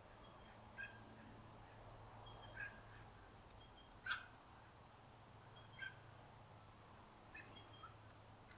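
Quiet bush ambience: faint, scattered short bird calls every second or two, the sharpest about four seconds in, over a low steady hum.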